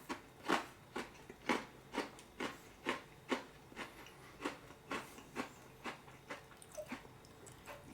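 Close-up chewing of a crunchy Oreo sandwich cookie: a steady run of crisp crunches, about two a second, growing fainter toward the end.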